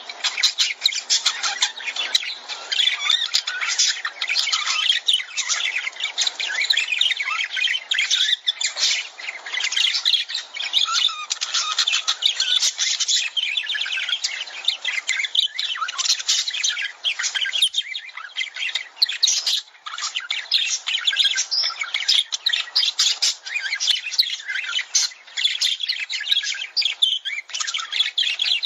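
Lovebirds chattering: a dense, nonstop stream of shrill chirps and squawks from several birds at once.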